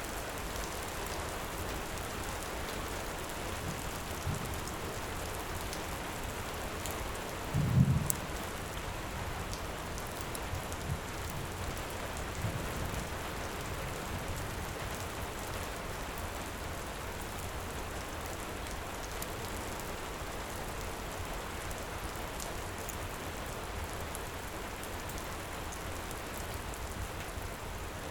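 Steady heavy rain, with a brief low rumble of thunder about eight seconds in and a few weaker low thumps around it.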